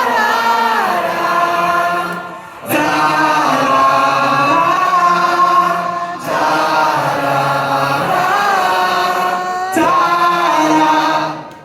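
Live concert music of choir-like singing by many voices: long held notes with slow pitch glides, in phrases of three to four seconds broken by brief pauses.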